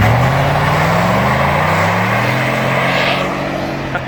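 A motor vehicle's engine accelerating, its pitch climbing steadily, then easing off near the end.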